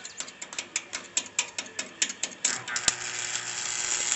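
Stick welding arc: rapid, regular ticking at about five a second, then about two and a half seconds in a steady hiss takes over as the arc burns continuously.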